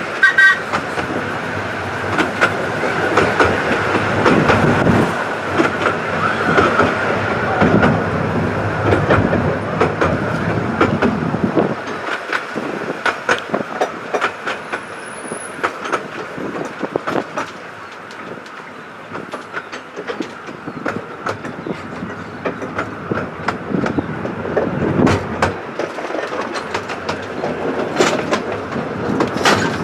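Miniature-railway passenger carriage running along the track, heard from on board, with a steady rumble and frequent wheel clicks over the rail joints. A faint steady squeal comes from the wheels in the first few seconds.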